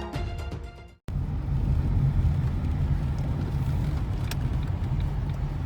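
Background music fading out in the first second, then a steady low rumble of a vehicle driving, heard from inside it, with a few faint clicks.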